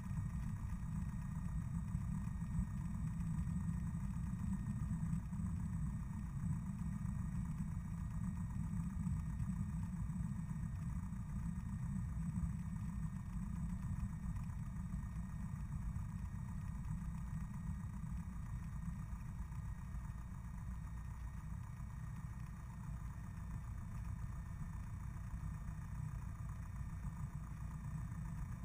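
Single-engine Cessna's piston engine and propeller at idle while the plane taxis, a steady low drone.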